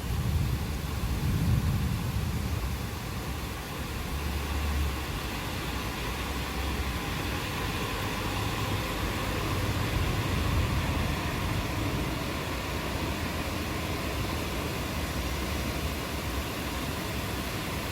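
Steady rain hiss from a thunderstorm, with low rumbling swells of distant thunder underneath near the start and again a few seconds later.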